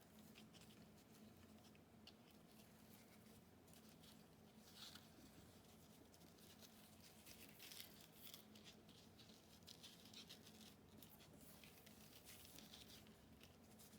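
Near silence with faint, scattered rustling as tulle ribbon is handled and tied in a knot around a paper card.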